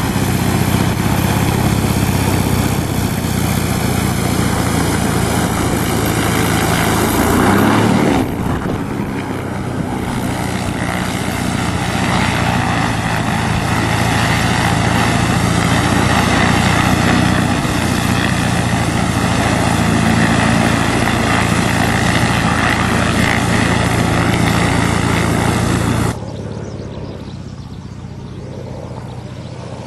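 Light propeller aeroplane's piston engine running steadily. The sound shifts briefly about eight seconds in, then drops suddenly to a quieter, duller level a few seconds before the end.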